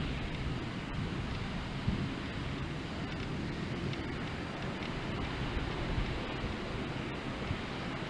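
Thunderstorm wind and rain as a steady noise, strongest in the low end.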